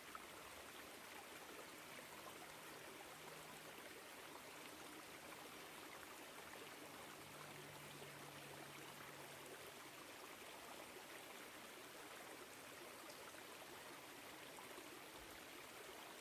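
Small woodland stream flowing over rocks: a faint, steady rush and trickle of water.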